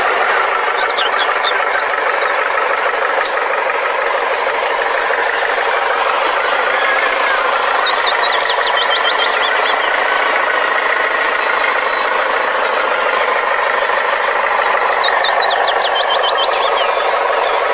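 A truck engine running steadily, with a short high chirping phrase of quick notes heard three times, about every seven seconds.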